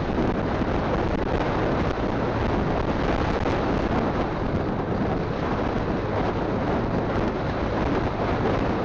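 Steady wind rushing over a phone's microphone on a moving motorcycle, with the ride's engine and road noise blended underneath.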